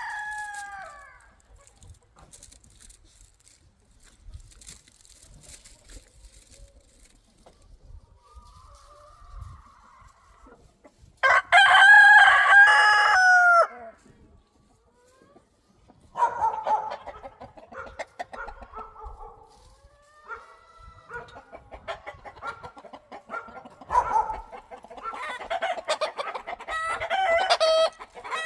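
Cheonggye chickens: a rooster crows once, a loud call of about two and a half seconds starting about eleven seconds in, and afterwards the flock clucks in many short calls that get busier toward the end.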